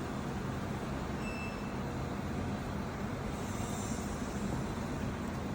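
Steady low machine hum with an even hiss, a shop machine's motor running continuously.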